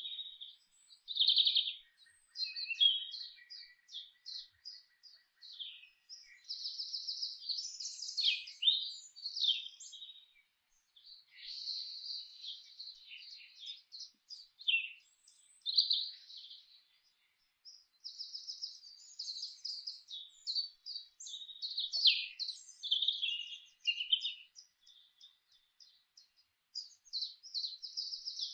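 Songbirds singing and chirping almost without a break: quick high chirps and rapid trills, several overlapping at once.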